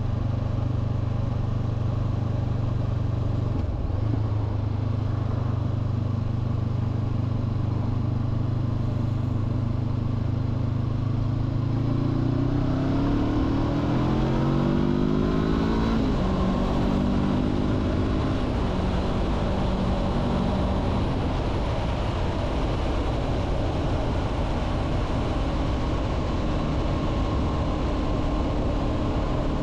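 2023 Honda CB500F's parallel-twin engine under way, with wind rush on the microphone. It cruises steadily for about twelve seconds, then accelerates with the revs climbing. The pitch drops sharply at an upshift about sixteen seconds in, climbs again, and settles to a steady cruise.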